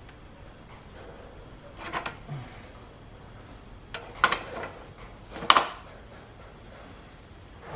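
A few sharp metallic clinks and knocks from clutch and gearbox parts being handled and fitted, two fainter ones about two seconds in and the two loudest at about four and five and a half seconds.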